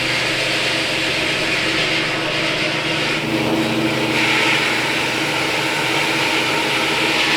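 A motor-driven machine running steadily, with a constant hum under a hissing, grinding noise; its sound shifts slightly about three seconds in.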